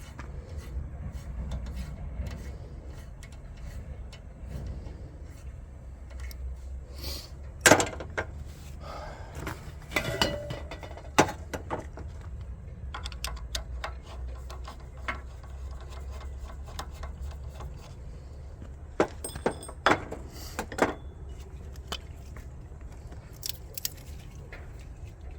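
Metal tools and vise parts being handled: scattered clinks and sharp knocks, a few louder ones, over a steady low hum.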